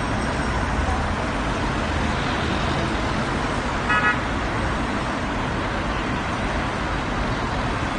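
Road traffic noise: a steady roar of passing vehicles, with one short car horn toot about four seconds in.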